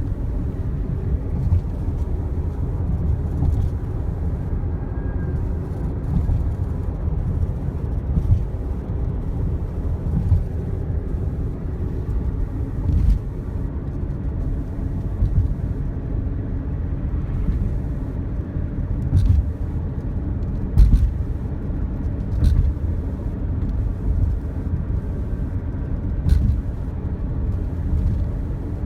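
Steady low rumble of a car driving in high winds, road and wind noise heard from inside the vehicle, with a few short sharp knocks and swells in loudness along the way.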